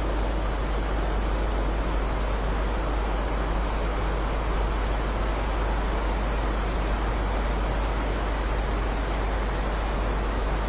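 Steady heavy rain: a dense, even hiss with a deep low rumble, and no single drops standing out.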